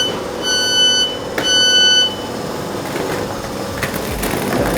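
Train door warning beeps: a steady electronic tone repeating about once a second, stopping about two seconds in, with a click between the last two beeps. A steady hum from the train carriage runs underneath, and a low rumble follows the beeps.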